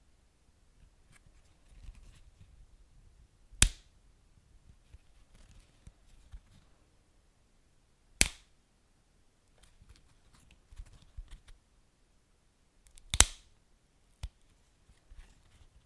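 Wood fire crackling: three loud, sharp pops about four to five seconds apart and a smaller one near the end, with faint crackles and a soft low rumble between them.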